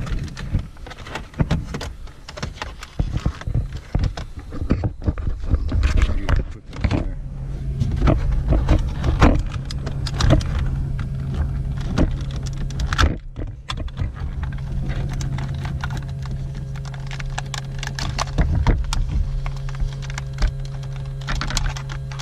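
Hands working plastic dash trim and wiring connectors on a Toyota Tarago's heater and air-conditioner control panel: irregular clicks, knocks and rattles of plastic clips and plugs being unclipped. About seven seconds in a steady low hum starts and carries on under the clicking.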